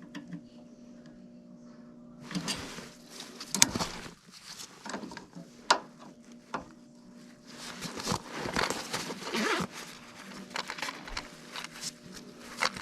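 Scraping, rustling and sharp clicks of hands and a tester's probes working at a gas furnace's control-board wiring, over a low steady hum. The noises come irregularly, starting about two seconds in, with a busier stretch past the middle.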